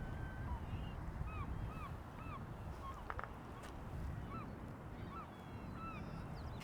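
A flock of birds calling all at once, many short arched notes repeated over and over: an alarm ruckus set off by an eagle flying over them.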